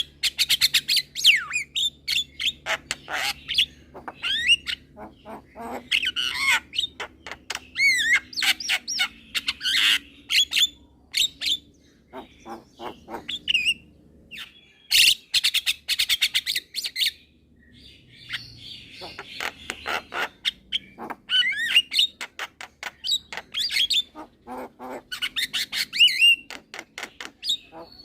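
Javan myna singing a long, varied song: bursts of rapid clicking and chattering, mixed with whistled rising and falling notes and harsh squawks, broken by short pauses.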